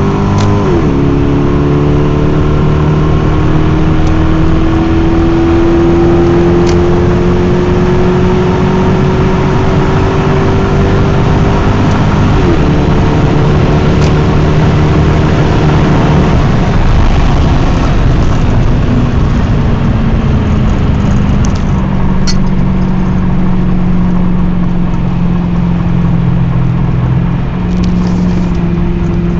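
1997 Lexus SC400's 4.0-litre V8 accelerating through the gears: the engine's pitch climbs slowly, drops at an upshift about a second in and again about twelve seconds in, then settles into a steady lower drone for the rest of the time.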